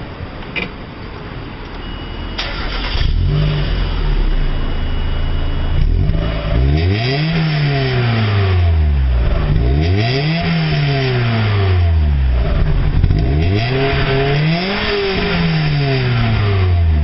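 Mazda Roadster NA6CE's 1.6-litre four-cylinder engine exhaling through the stock 1989 muffler, idling and then revved three times, each rev rising and dropping back to idle.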